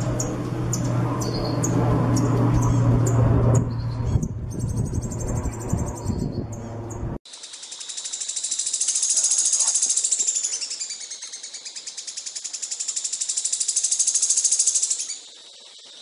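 Songbird chirping in short, repeated high notes over a low hum. After an abrupt cut, a long, very fast, high-pitched trill swells, fades a little, swells again and stops near the end.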